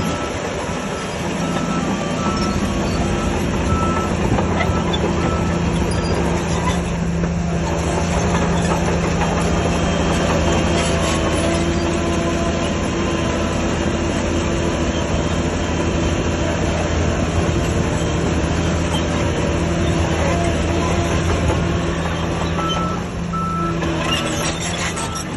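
Heavy diesel earthmoving machinery running steadily under load. A reversing alarm beeps in an even rhythm during the first few seconds and again near the end.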